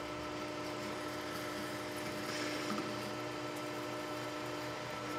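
Metal lathe running steadily, with a steady hum under a hiss, as a boring bar with a positive-rake carbide insert cuts the bore of a steel part.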